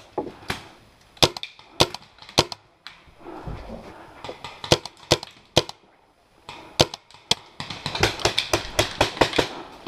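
Paintball markers firing sharp single shots at irregular intervals, then a quicker run of shots over the last two seconds.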